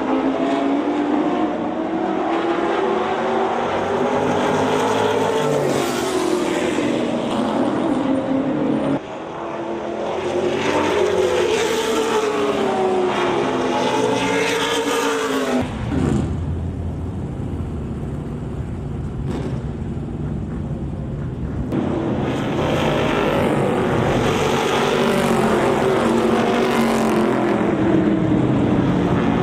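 Race cars running hot laps on an oval track, their engines rising and falling in pitch as they come around and pass. About halfway through, the sound turns to a deeper, lower engine note for several seconds before the higher, swelling laps return.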